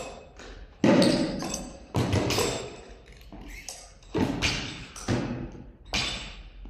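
Weights dropped on a gym floor: about five heavy thuds at uneven intervals, each with a ringing tail that fades over about a second.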